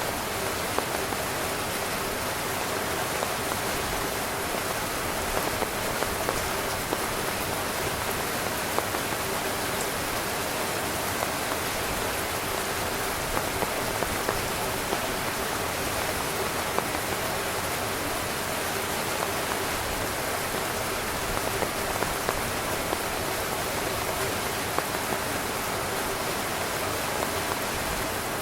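Rain falling on a tent: a dense, steady patter with scattered louder drop hits.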